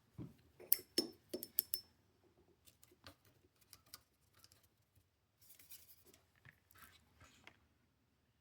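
Watercolour painting tools being handled: a quick run of small clicks and taps, a few with a short glassy ring, then a couple of seconds of scratchy rustling.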